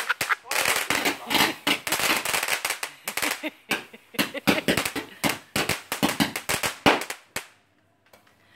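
Fireworks going off in a rapid, irregular string of sharp cracks and bangs that stops about seven and a half seconds in.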